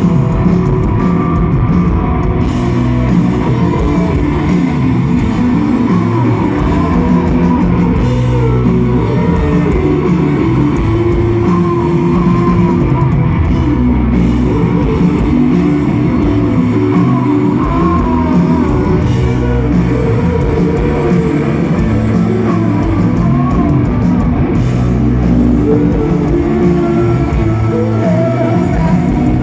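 Live rock band playing, with electric guitar and drum kit and a singer's voice over them, loud and continuous.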